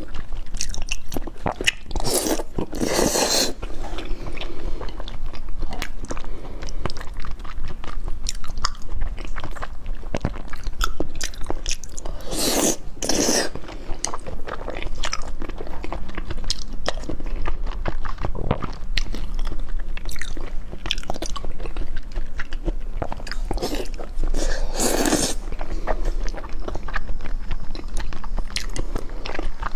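Close-miked chewing and biting of raw salmon sashimi: wet mouth sounds and many small clicks, louder three times, near the start, in the middle and near the end.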